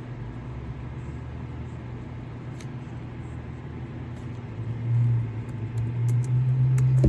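A steady low mechanical hum that swells louder about five seconds in, with a few faint short clicks.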